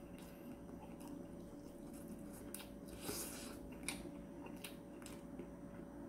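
A person eating fish cake: faint chewing and biting with soft wet mouth clicks now and then, and a brief hiss about three seconds in.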